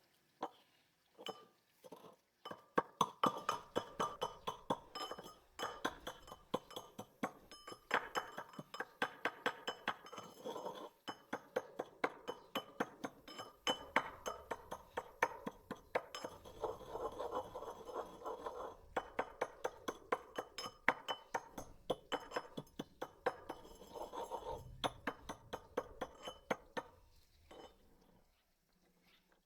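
Repeated clinking of a utensil against a hard kitchen dish, about three or four strikes a second, with a light ringing to each strike. It runs in long spells with a few short breaks.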